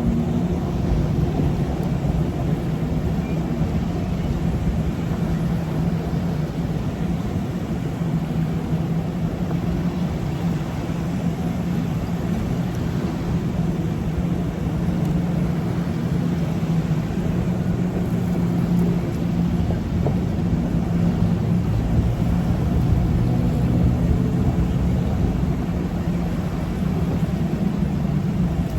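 An engine running steadily, its hum holding a fairly even pitch over a continuous low rumble.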